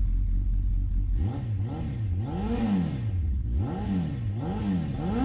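Kawasaki ZX-10 inline-four motorcycle engine idling, then revved with repeated throttle blips from about a second in, the pitch rising and falling several times.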